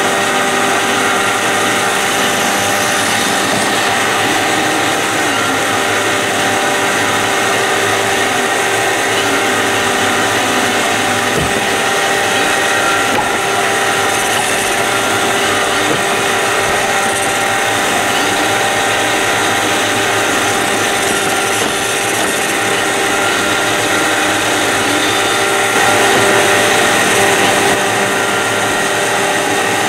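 iRobot Roomba 531 robot vacuum running, a steady motor whine over the even rush of its suction and brushes.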